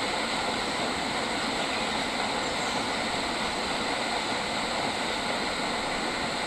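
Steady outdoor nature ambience: an even, unbroken hiss with several constant high-pitched droning bands running through it, with no distinct bird calls.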